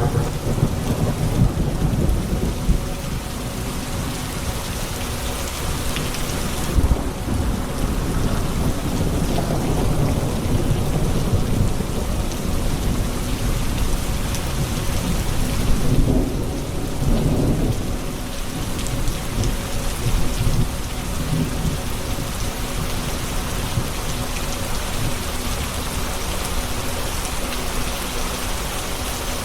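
Steady heavy rain with low rolling thunder rumbling throughout, swelling at the start and again a little past the middle.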